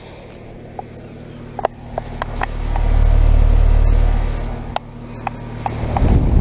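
2021 5-ton Carrier Comfort heat pump outdoor unit running in cooling mode: a steady hum from its Copeland scroll compressor and condenser fan. A low rumble swells up about two seconds in and fades a little before the end, with light clicks over the top.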